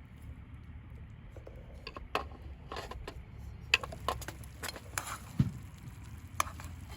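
Camp cookware and utensils being handled: about a dozen irregular light clicks and clinks, starting about two seconds in, over a low steady rumble.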